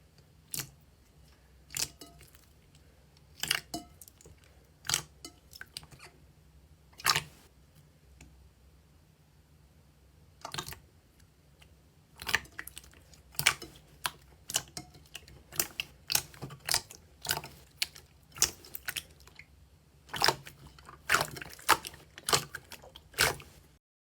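Slime being pressed and poked, giving irregular sharp sticky pops and crackles that come sparsely at first and in quicker clusters from about halfway.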